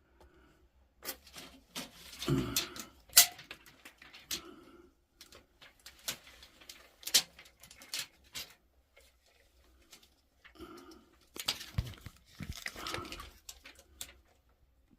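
Irregular clicks and knocks of things being handled close up, with short bursts of a person's breathing between them.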